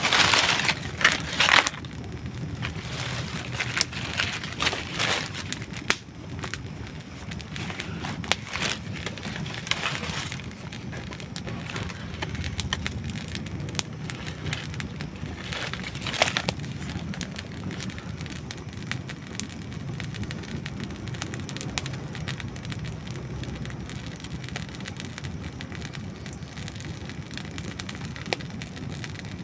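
Wood campfire burning, with dry logs crackling and popping over a low steady rumble of the flames. The pops come thick and loud in the first couple of seconds, again in clusters around a third and half of the way in, then thin out to scattered snaps.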